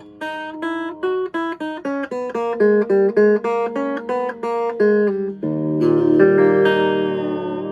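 Vintage Silvertone hollowbody electric guitar played clean with no effects: a run of about a dozen single picked notes, then a chord struck about five seconds in and left ringing.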